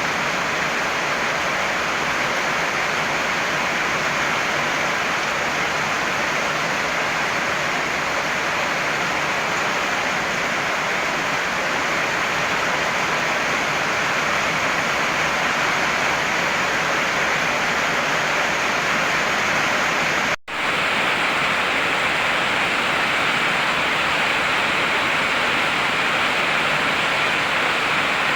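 Heavy rain pouring steadily, a dense even hiss with no single drops standing out. The sound cuts out for an instant about two-thirds of the way through, then resumes unchanged.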